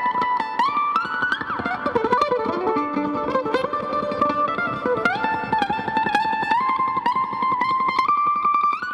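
Mandolin solo played live, a quick melody of rapidly picked notes.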